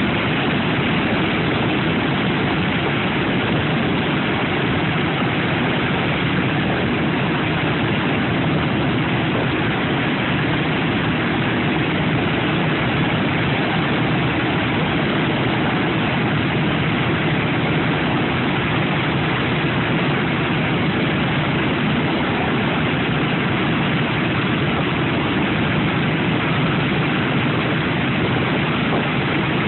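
B-17 Flying Fortress's Wright R-1820 Cyclone radial piston engines running steadily at idle.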